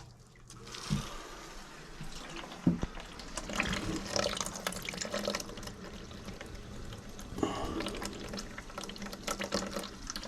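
Water running and splashing from an open tap, with scattered knocks and clatter throughout.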